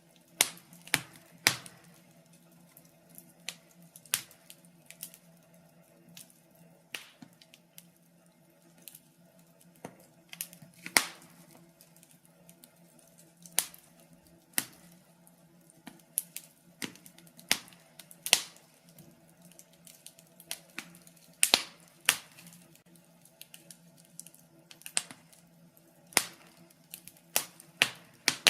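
Wood fire in a fireplace crackling: burning logs giving off sharp pops and snaps at irregular intervals, some louder than others, over a faint steady low hum.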